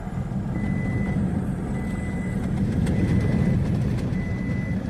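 Steady low vehicle rumble, with a high beep repeating roughly once a second, each beep about half a second long.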